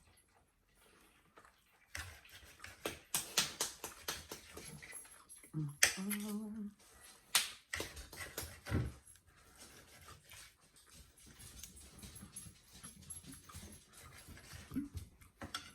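Eating sounds with clicks and taps of cutlery on plates, clustered in the first half. About six seconds in, a dog gives one short whine.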